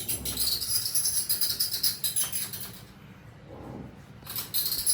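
Rapid, high-pitched shaking rattle, like small loose metal pieces jingling. It breaks off for about a second a little past halfway, then starts again.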